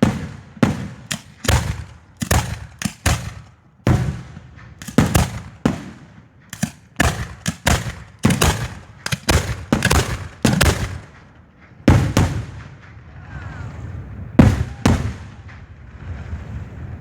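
Fireworks bursting in a rapid string of loud bangs, several a second and often overlapping. They thin out after about twelve seconds, with the last few bangs about three seconds later.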